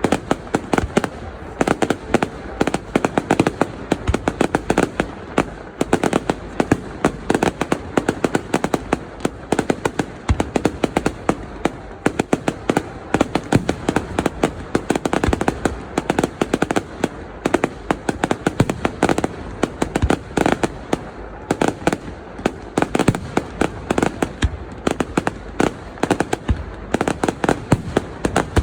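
Fireworks display going off in a dense, continuous barrage: sharp bangs many times a second with no let-up.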